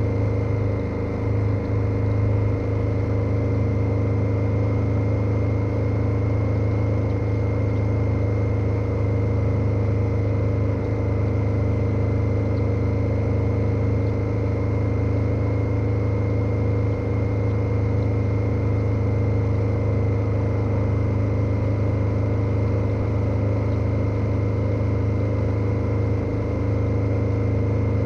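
KTM 1290 Super Adventure's V-twin engine running at steady revs while the motorcycle is ridden, its pitch holding constant throughout.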